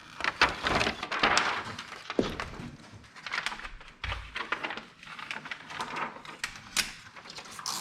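Handling noise of wet window tint film being worked against the glass by hand: irregular clicks, taps and a brief rustle about a second in.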